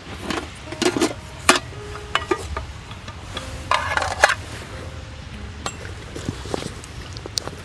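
Camp gear being handled: irregular clinks and knocks, a few with a short metallic ring.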